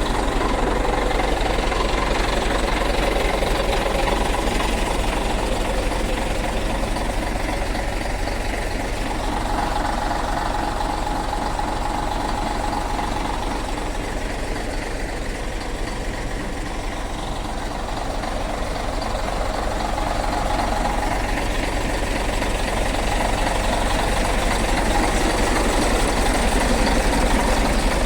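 Scania truck's diesel engine running steadily, easing off a little in the middle and building up again toward the end.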